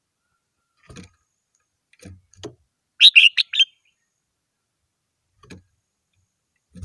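Red-whiskered bulbul singing one short, loud phrase of about five quick chirping notes a little after three seconds in. Faint taps are heard before and after it.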